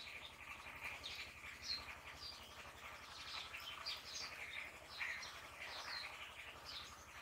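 Birds chirping: many short, high calls overlapping.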